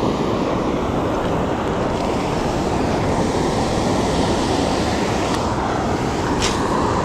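Waterfall's falling water making a steady, loud rushing noise.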